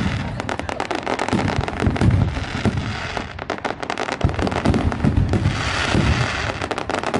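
A fireworks display with many rapid bangs, crackles and deep booms overlapping, and sizzling crackle patches between them.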